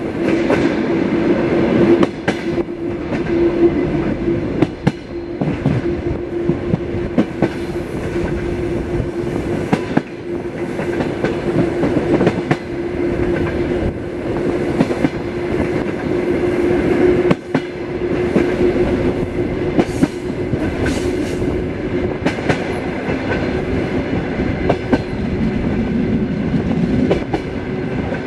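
Passenger coach of a diesel-hauled suburban train running at speed: steady rolling rumble and hum, with the wheels clicking at irregular intervals over the rail joints.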